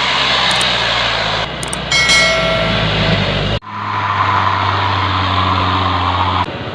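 Dump truck diesel engine running steadily, in short clips that cut abruptly from one to the next. About two seconds in, a brief hiss and a short high tone sound over the engine.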